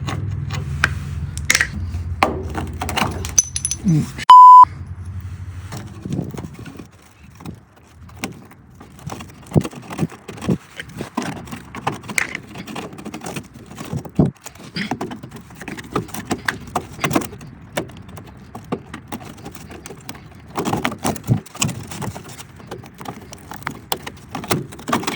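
Metal clinks and knocks of hand tools and a hose clip being worked loose while an old heater hose is pulled off the car. About four seconds in comes one loud, short, steady beep tone, a censor bleep laid over a word.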